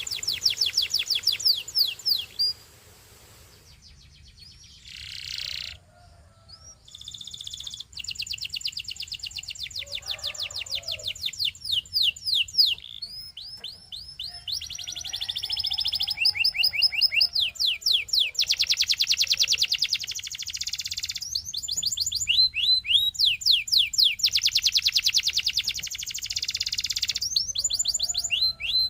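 Belgian singing canary singing long runs of fast repeated high notes that change from one run to the next, with a pause of a few seconds near the start.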